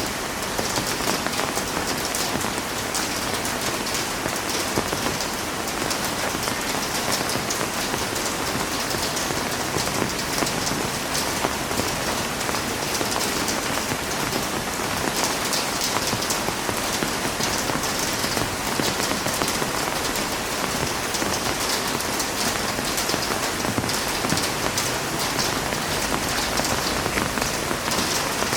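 Heavy rain falling steadily, a dense hiss of drops with countless fine patters on a hard surface.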